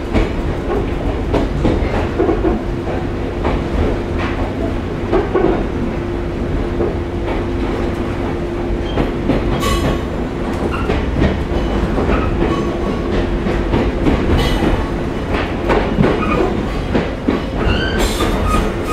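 Running sound inside a JR 115-series electric multiple unit car, heard from the saloon: a steady rumble with the clickety-clack of wheels over rail joints and a steady hum through most of it. A high wheel squeal starts near the end.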